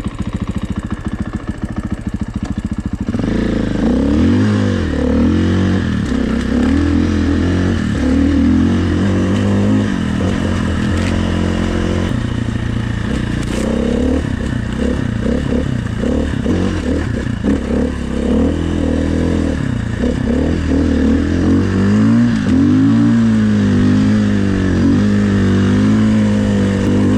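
Dirt bike engine ticking over for the first few seconds, then revving up and down repeatedly as the bike is ridden, its pitch rising and falling again and again.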